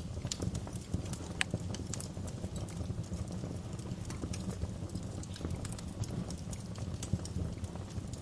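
Wood fire crackling in a fireplace: irregular sharp pops and snaps over a low, steady rumble of burning, with one sharper pop about a second and a half in.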